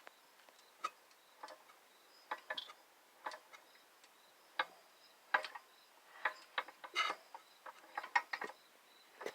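Irregular sharp metallic clicks and knocks, roughly one every half second, from a Kohler K301 single-cylinder engine. This is the noise being checked as suspected piston slap.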